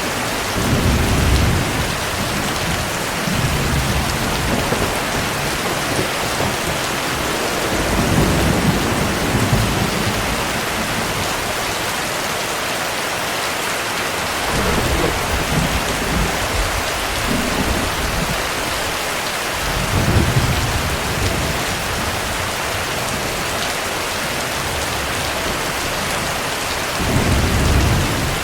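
Heavy rain falling steadily, with low rolls of thunder coming and going every few seconds, strongest about a third of the way in, past the two-thirds mark and near the end.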